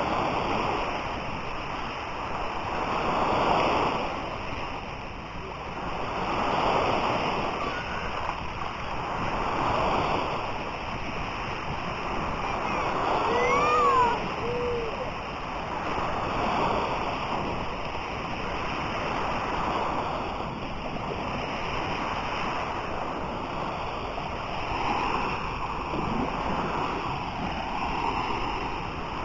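Sea waves washing onto a beach, the surf swelling and easing about every three seconds, with a brief high-pitched call partway through.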